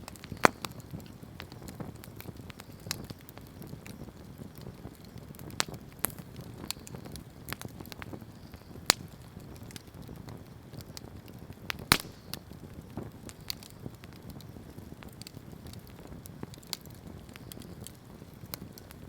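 Wood campfire burning, a low steady rumble of flames with scattered sharp crackles and pops, a few of them loud.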